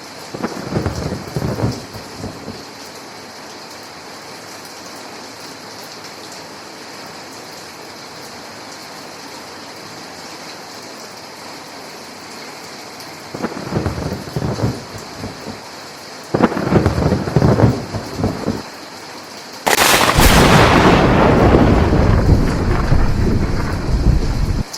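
Steady rain with rolling thunder: a short rumble just after the start, two more a little past halfway, then a much louder thunderclap that keeps rumbling through the last five seconds.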